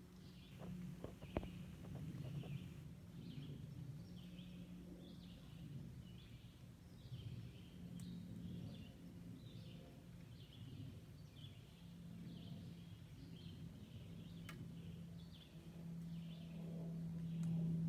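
Distant airplane engine drone, a low steady hum that grows louder near the end as the plane approaches. Over it, a bird calls in short high chirps about once a second.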